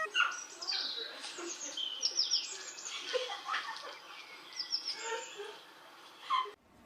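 Small birds chirping: many short, high, falling chirps, some in quick runs of three or four, until the sound cuts off suddenly near the end.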